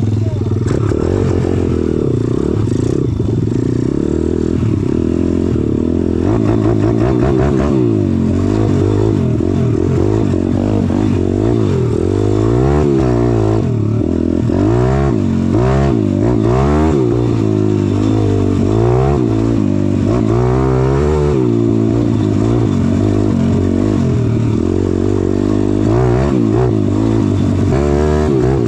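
Pit bike's single-cylinder four-stroke engine running hard under a rider. It is held at steady high revs at first, then revved up and down over and over, rising and falling about once a second through the second half.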